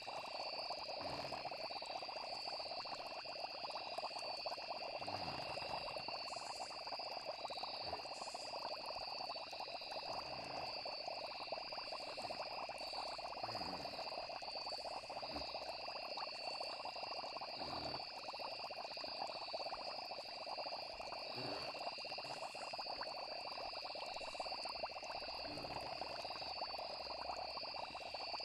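Night-time nature ambience: a steady high insect trill over a dense chorus of frogs, with short low sounds every few seconds.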